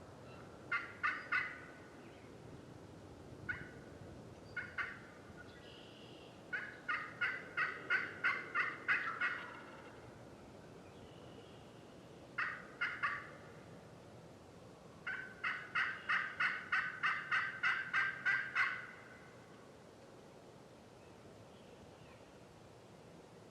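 Turkey yelping: short runs of three or four notes and two longer runs of about a dozen notes, evenly spaced at about four a second, each note a short rasping call.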